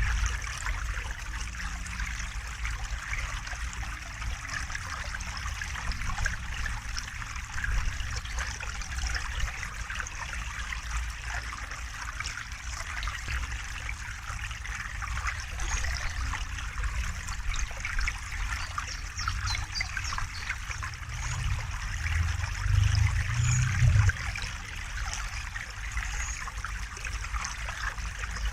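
River water flowing and trickling in a steady rush, over a low rumble that swells louder for a few seconds near the end.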